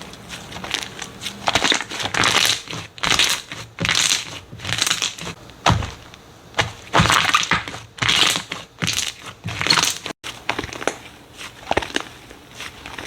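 Slime being squeezed, pressed and pulled by hand: a run of irregular squishes, one or two a second, with a brief break about ten seconds in.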